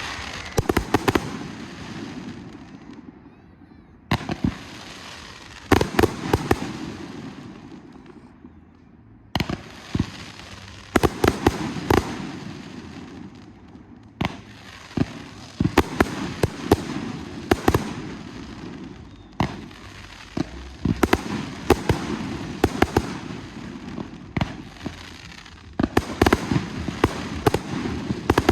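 Fireworks display: a run of sharp bangs from bursting fireworks, several a second at the busiest moments, over steady crackling, with short lulls every few seconds.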